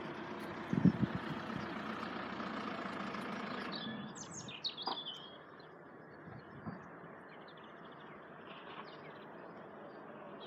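Small birds chirping, over a steady vehicle rumble that fades out about four seconds in, leaving faint birdsong.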